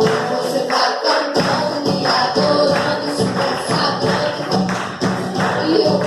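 Live worship band music with a steady, driving beat, playing without singing.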